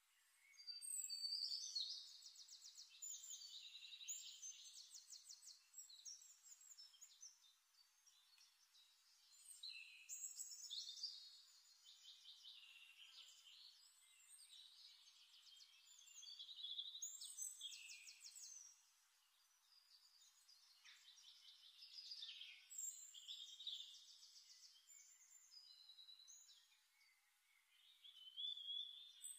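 A songbird singing faint, high trilling phrases, a new phrase starting every six seconds or so, with quieter pauses between.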